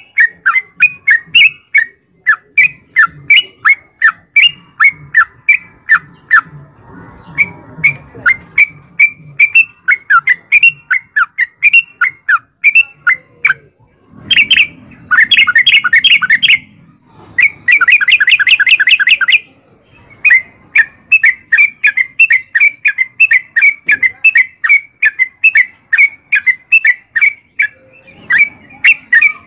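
Yellow-vented bulbul (trucukan) song: a long, fast run of chattering notes, about three a second, broken twice near the middle by denser, quicker rolling runs of about two seconds each.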